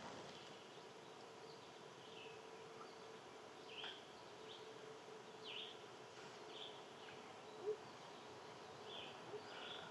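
Faint outdoor ambience: small birds giving short soft chirps about once a second over a steady faint buzz.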